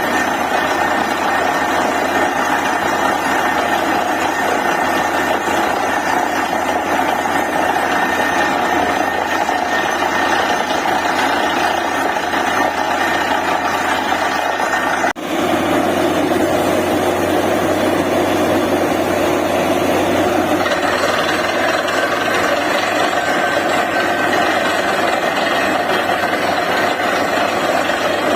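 DTH borewell drilling rig running, its diesel engine and air compressor making a loud, steady drone. There is a sudden brief drop about halfway through, after which the drone's tone shifts slightly.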